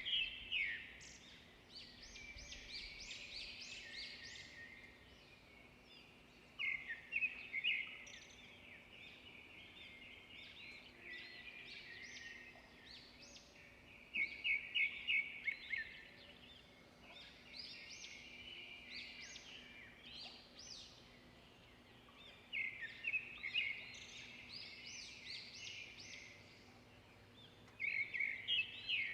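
Birds singing and chirping in a continuous chorus. A louder burst of rapid repeated calls comes about every seven seconds.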